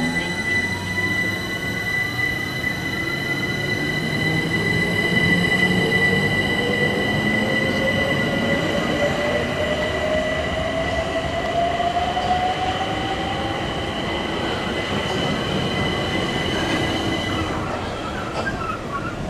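A train moving through the station, with a whine that rises slowly in pitch over about fourteen seconds as it picks up speed. Steady high-pitched squealing tones run alongside and stop near the end.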